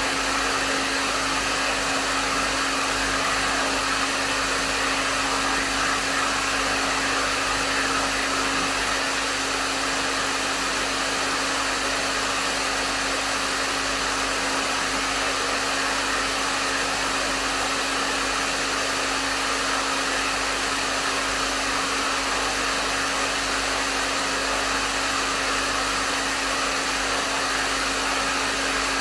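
Hair dryer running steadily at medium setting: an even rush of air with a steady motor hum underneath.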